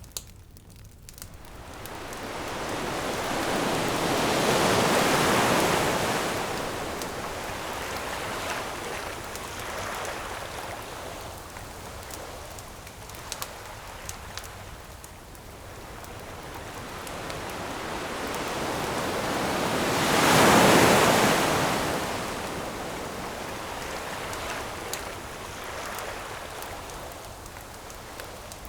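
Ocean waves washing onto the shore, swelling into two large breaking surges about five seconds and twenty-one seconds in and easing back between them. Small sharp pops and crackles of a burning wood campfire are scattered through it.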